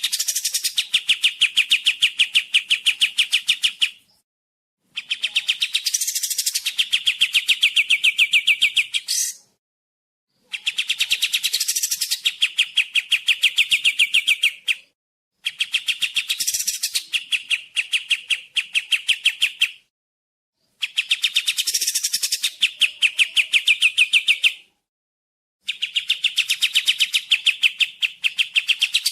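Kapas tembak songbird singing in repeated bouts of about four seconds, each a fast, even run of clear notes, with short silent gaps between bouts.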